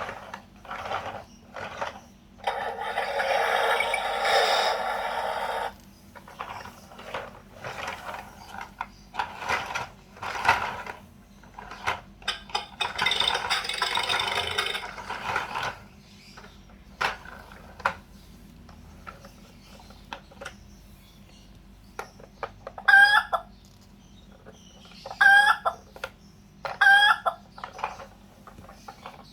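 Fisher-Price Little People Tow 'N Pull Tractor toy's electronic sound effects: two long noisy bursts and scattered clicks and rattles as it is handled, then recorded hen clucking from its speaker, short calls in quick groups through the last third.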